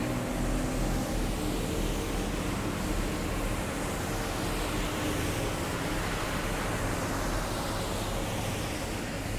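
Heavy military vehicles driving past in a column, with a steady engine and road noise. Low engine tones fade over the first few seconds, and the noise swells as a vehicle passes about midway, then eases slightly near the end.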